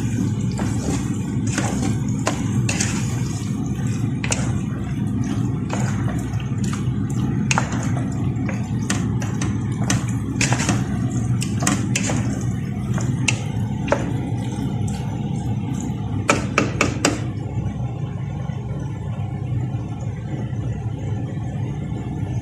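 Cubed chicken cooking in a pan while its released liquid cooks off, stirred with a utensil: repeated sharp clicks and scrapes against the pan over a steady low rumble. The clicking stops about 17 seconds in and the low rumble continues.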